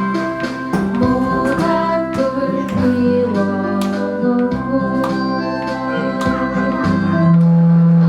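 Live band music: guitar and electronic organ accompanying a woman singing a slow folk ballad.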